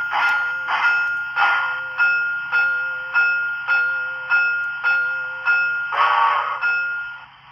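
DCC sound decoder of an HO scale model 2-6-6-4 steam locomotive playing steam exhaust chuffs, a little under two a second. A steady ringing tone runs under the chuffs. A brief sound with falling pitch comes about six seconds in, and the sound cuts out shortly before the end.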